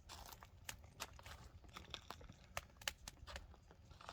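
Faint, irregular crackling and popping of burning log firewood as the fire catches.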